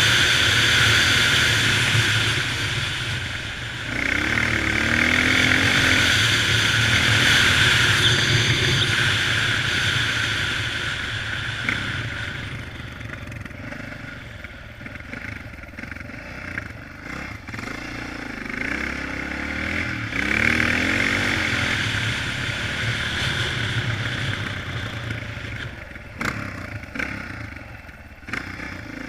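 Honda XR650R's single-cylinder four-stroke engine pulling the dirt bike along, its pitch rising and falling as the rider accelerates and eases off several times, with a steady rushing noise over it. Louder through the first half, quieter after.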